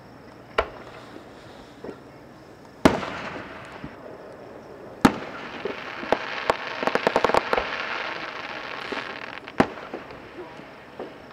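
Aerial fireworks shells bursting in a series of sharp bangs, the loudest about three seconds in. Between about six and eight seconds there is a quick run of crackling pops.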